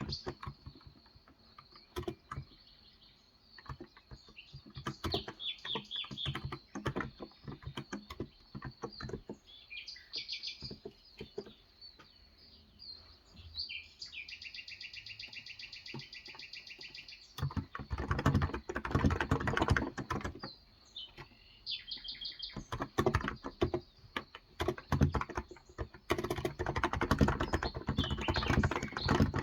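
Typing on a Cox Endeavor electrocapacitive (Topre-style) 35 g tenkeyless keyboard: scattered keystrokes in the first half, then fast, continuous typing from a little past halfway. Birds chirp in the background.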